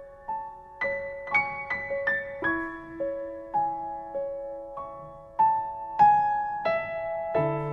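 Background piano music: slow, gentle single notes struck one after another, with lower chords coming in near the end.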